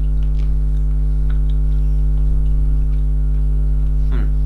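Steady, loud buzzing hum on the recording: a low drone with a stack of evenly spaced higher tones above it, unchanging throughout, of the electrical mains-hum kind, its source unknown.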